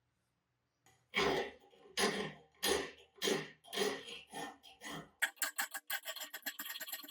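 Hand scraping strokes on a part of the hand plane, about one every 0.6 s after a second of silence, then a quicker run of short scratches from about five seconds in.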